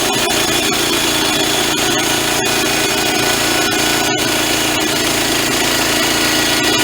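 Band sawmill sawing through a log: a steady, continuous cutting noise with the mill's motor running under it.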